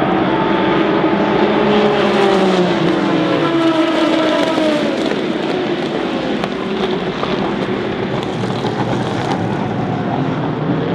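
Endurance race cars at speed passing on track, with loud engine notes throughout. About two seconds in, one car's engine note slides down in pitch as it goes by, and other cars' engines follow.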